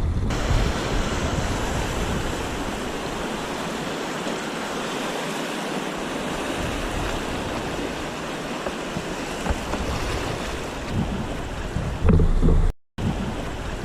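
Wind blowing across the microphone: a steady rushing hiss with low rumbling buffets that grow stronger near the end. The sound drops out for a moment shortly before the end.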